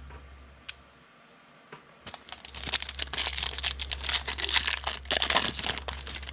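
Plastic foil wrapper of a trading card pack being torn open and crinkled by hand. There is a single click a little before a second in, then a continuous crackling from about two seconds in that fades out near the end.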